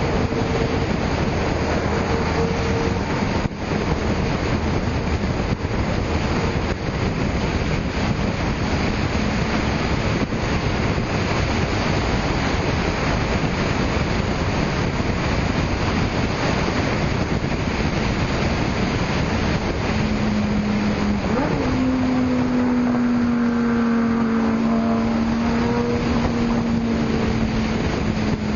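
Car traffic with heavy wind rush on the microphone. About two-thirds of the way in, a car's engine note comes up clearly, steps up in pitch and then sinks slowly as the car goes by.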